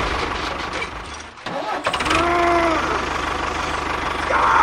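A tractor-like engine running with a steady low pulse, cutting out briefly about a second and a half in and starting again. A short pitched voice-like sound comes just after it restarts.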